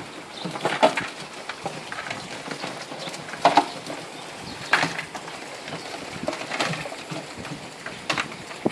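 A series of sharp knocks and clatters, about five, spread irregularly over a steady background hiss.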